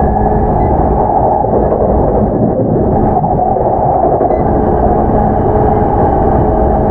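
Onboard running sound of a JR East E233-7000 series electric train, recorded in motor car MoHa E233-7407 with Mitsubishi IGBT-VVVF drive: a steady, loud rumble of wheels on rail. A few thin steady tones from the traction equipment sit over it, fading in the middle and returning about five seconds in.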